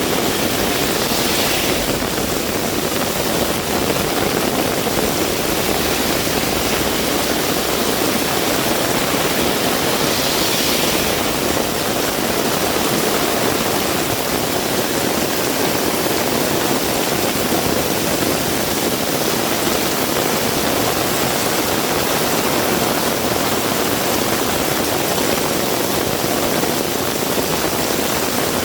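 Heavy rain pouring down steadily, a dense even hiss of downpour, swelling briefly twice.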